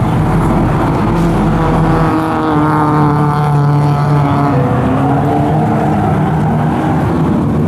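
Car engine running, its pitch rising and falling a little.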